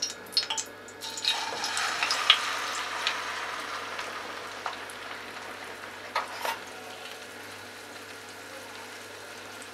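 Beaten egg and vegetable mixture sizzling in hot oil as it is poured into a frying pan. The sizzle starts about a second in and slowly dies down, with a few light taps of the bowl and spatula against the pan.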